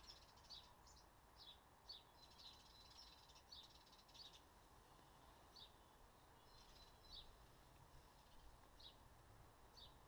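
Faint small-bird chirping: short high notes repeating several times a second at first, then only now and then from about halfway through.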